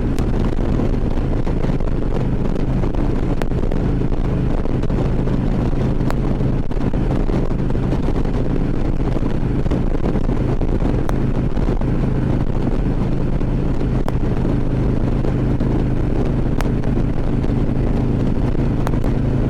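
Harley-Davidson Ultra Classic Limited's V-twin engine running at a steady cruise, with wind buffeting the helmet microphone.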